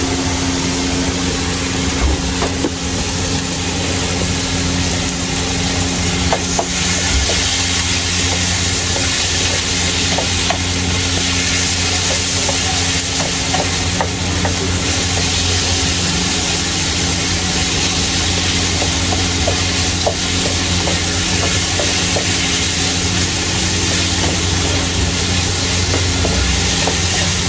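Chicken breast pieces sizzling as they are stir-fried in a wok, a wooden spatula scraping and knocking against the pan now and then, over a steady low hum.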